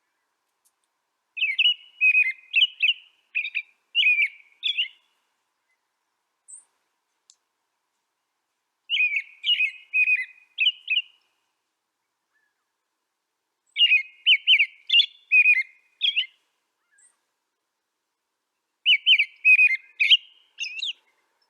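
A songbird singing: four warbled phrases of several quick, clear notes, each about two to three seconds long, with pauses of a few seconds between them.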